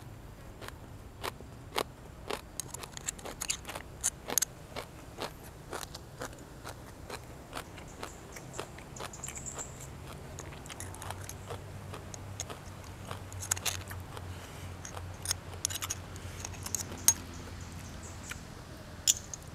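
Close-miked crunching and chewing of food: a string of sharp, irregular crunches and clicks, with a faint low hum beneath.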